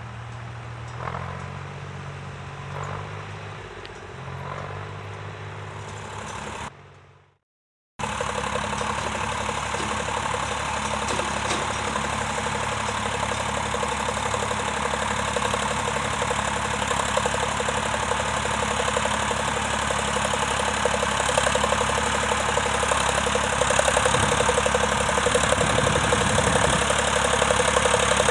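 Tractor engine running steadily, with a few soft knocks in the first few seconds. The sound fades to silence about seven seconds in, then a louder tractor engine runs on, growing a little louder toward the end.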